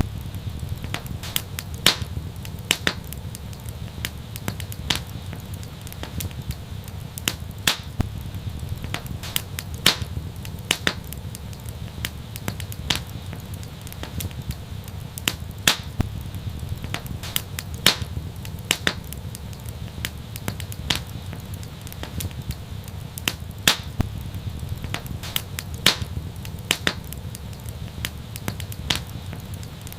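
Wood fire burning with a steady low rumble and irregular crackles, a few sharper pops standing out every second or two.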